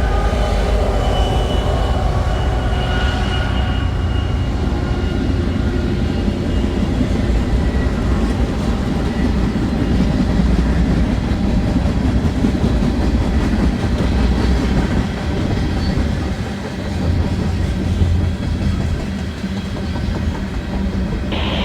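Freight train rolling past, a steady heavy rumble of wheels on rail. A few high ringing tones fade away over the first few seconds.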